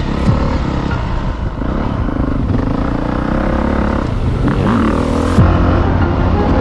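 Dirt bike engine running and revving, its pitch rising and falling, with a sudden change in the sound about five and a half seconds in.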